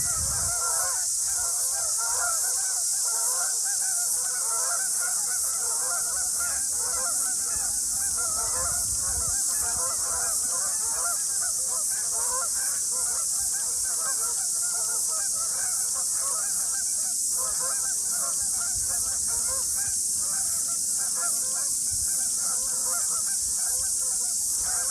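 A large flock of geese honking and cackling continuously, many calls overlapping, over a steady high hiss.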